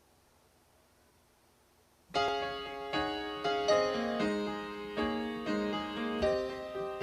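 Near silence for about two seconds, then a piano starts a slow instrumental intro of single struck notes and chords, each ringing and fading, about two a second.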